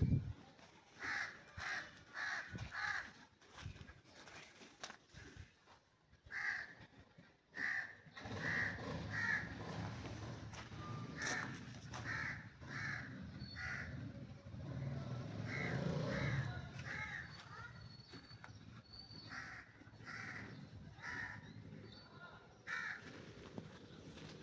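A bird calling over and over in runs of two to four short calls, like crows cawing. Through the middle a louder low rumbling noise runs under the calls.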